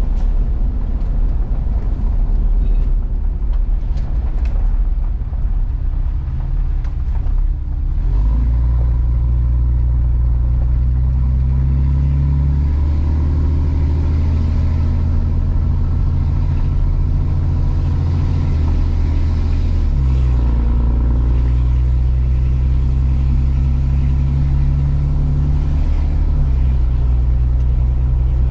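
A truck driving along with its engine running. There is rough rumble for the first several seconds, then a steady engine drone whose pitch shifts in steps a few times, about 12, 20 and 26 seconds in.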